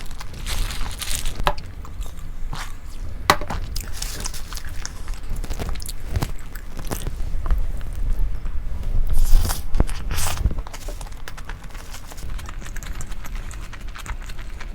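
A person eating close to the microphone: crunching and chewing, with scattered sharp clicks and scrapes.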